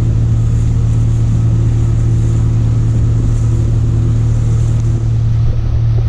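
Boat motor running steadily, a constant low drone with an even hiss over it.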